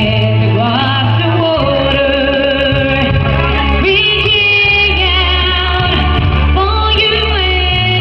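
A woman singing a held, wavering melody over musical accompaniment with sustained bass notes.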